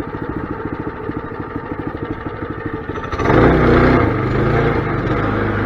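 Mini bike's small engine running with an even pulsing beat at idle, then speeding up and getting louder about three seconds in and holding at the higher speed.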